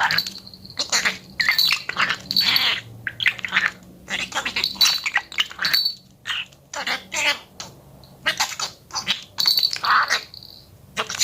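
Pet budgerigar warbling and chattering: rapid runs of short, scratchy chirps and squawks, with a thin high note held now and then.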